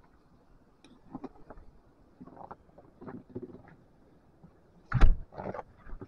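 Footsteps crunching through dry powder snow in uneven steps, then a loud thump about five seconds in.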